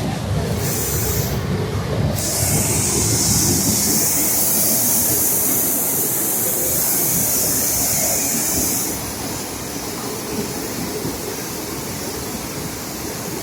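Flash floodwater rushing through a wadi: a steady, heavy rumbling roar of the torrent at full strength. A brighter hiss joins about two seconds in and cuts off about nine seconds in.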